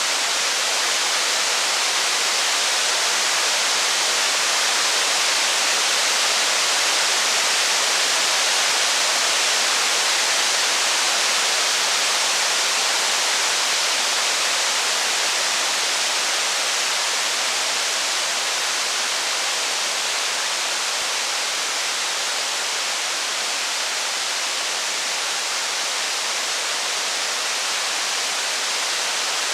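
Steady heavy rain, a dense even hiss with no single drops, crackles or thunder standing out.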